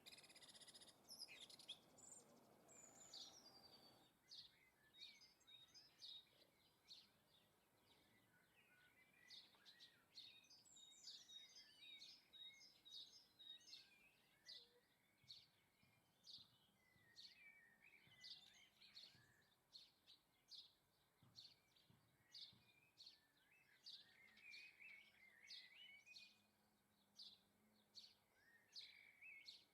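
Faint chirping and twittering of small garden birds, many short calls in quick succession, with a low hiss in the first four seconds.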